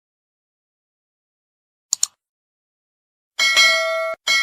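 A quick double click about two seconds in, then a bell-like metallic ding rings out with several steady overtones. It cuts off near the end and rings again.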